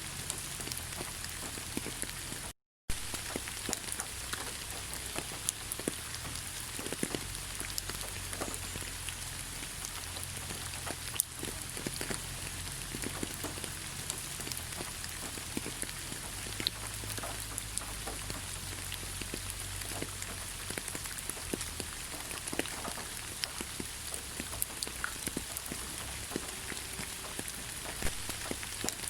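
Steady rain falling in a forest: an even hiss dotted with many individual drops ticking. About three seconds in, the sound cuts out completely for a split second.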